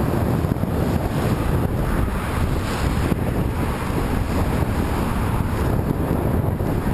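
Steady wind rushing over the microphone, a continuous low rumble with no breaks, from travelling into a headwind.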